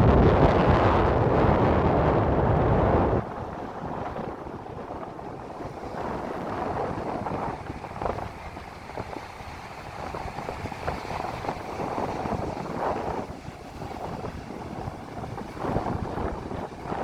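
Strong wind buffeting the microphone with a heavy low rumble, dropping abruptly about three seconds in to a quieter, gusting rush of wind and surf.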